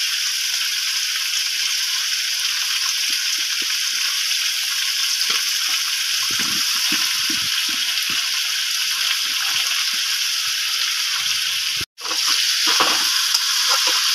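Chicken pieces and sliced onions sizzling in hot mustard oil in a steel kadhai, a steady frying hiss with a few light knocks in the middle. Just before twelve seconds in it breaks off for an instant, then comes back a little louder as a metal spatula stirs the pan.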